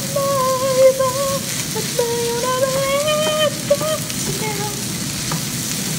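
Fried rice sizzling steadily in a hot pan as it is stirred with a wooden spatula, with a few knocks of the spatula. Over it a person hums a slow tune in long held notes for the first four seconds or so.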